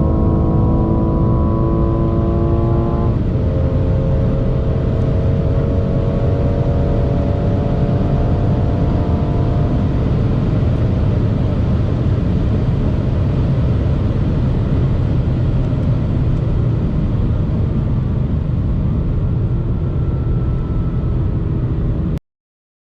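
BMW M240i's B58 turbocharged inline-six, tuned with a JB4 and a VRSF downpipe, pulling at full throttle at high speed. A gearshift about three seconds in drops the pitch, then the engine note climbs slowly in the next gear over a loud steady rush of wind and road noise. The sound cuts off suddenly near the end.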